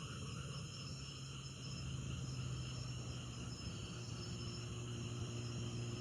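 Steady background ambience: a high, insect-like drone over a low, constant hum, with no speech.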